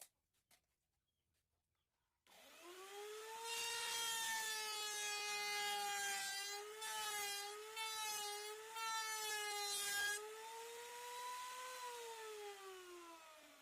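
Small electric power tool starting about two seconds in: its motor spins up, then runs with its pitch wavering and dipping as it bites into the wood, and winds down near the end.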